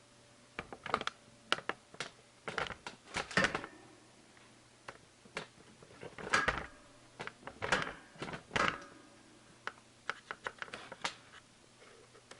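Hope Pro II Evo single-speed trials rear hub freewheeling, its pawls ratcheting in short, uneven bursts of clicks with brief gaps between.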